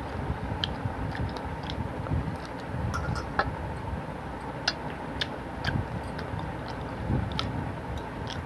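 Close-up mouth sounds of a person eating rice and fish curry by hand: soft, uneven chewing with many sharp little wet clicks scattered through it.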